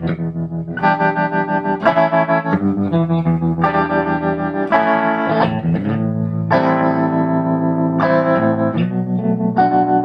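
Electric guitar playing sustained chords through an analog tremolo stompbox, the volume pulsing quickly and evenly. The chords change every second or two.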